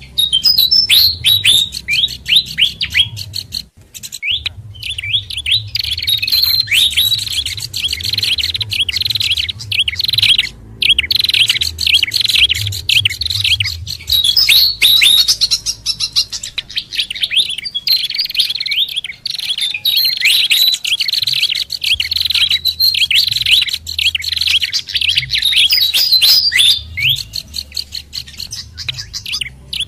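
Dense, busy mix of songbird calls from a bird-lure recording: fantail, babbler and prinia calls layered into continuous rapid chirps and trills, with brief pauses about four, eleven and twenty-nine seconds in. A faint low hum runs underneath.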